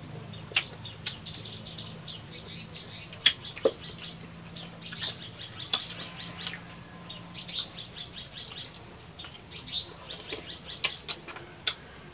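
Small birds chirping in quick, high-pitched trills that come in about five bouts, with a few sharp clicks between them.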